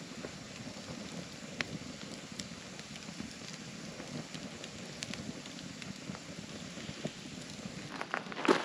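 Wood campfire crackling: a steady hiss with scattered sharp pops. Near the end there is a louder crunching rustle.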